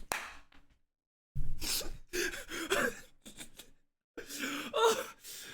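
A person's voice in breathy, gasping vocal bursts without clear words, in two stretches separated by short silences.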